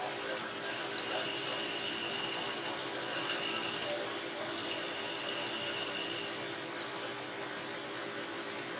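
A machine running steadily, with a high whine that starts about a second in, drops out briefly twice and stops near six seconds in.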